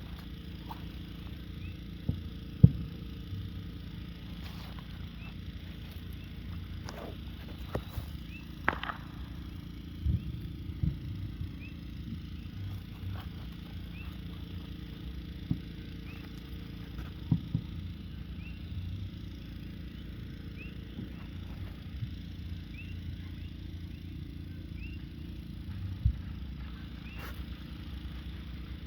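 A handful of isolated sharp firework bangs, spaced seconds apart, over a steady low background hum.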